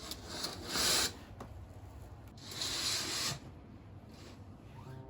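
Two short rubbing, hissing noises about two seconds apart, the first the louder.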